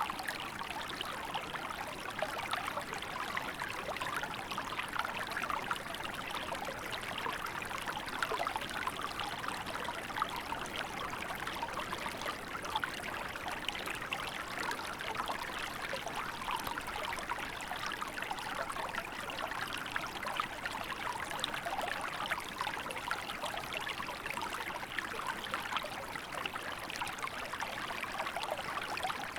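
Small river flowing and trickling steadily, a continuous burbling rush of water.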